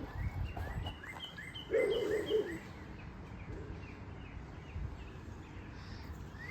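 Small birds chirping: a quick run of short rising chirps in the first two or three seconds, then a few scattered ones, over a low rumble. A brief muffled sound about two seconds in is the loudest thing.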